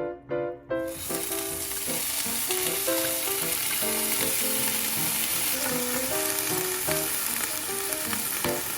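Food frying in a hot oiled pan, a steady sizzle that starts suddenly about a second in.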